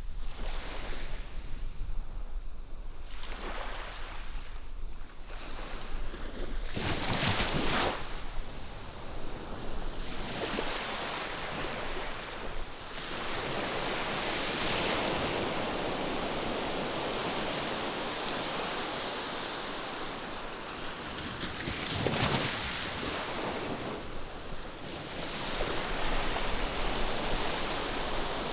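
Ocean waves breaking and washing ashore as a steady hiss of surf. Louder wave breaks swell up about a quarter of the way in and again near three quarters of the way in.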